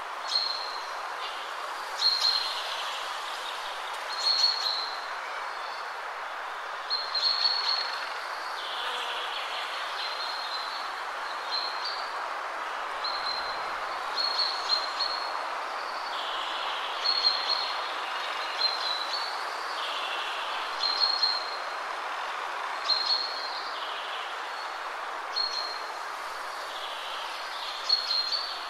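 Birds chirping in short repeated calls every second or two over a steady background hiss.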